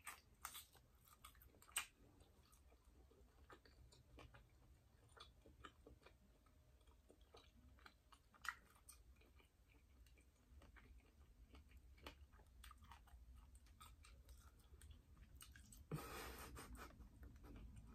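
Faint chewing: soft wet mouth clicks and smacks of a person eating sausage, with a few sharper clicks about half a second, two seconds and eight and a half seconds in.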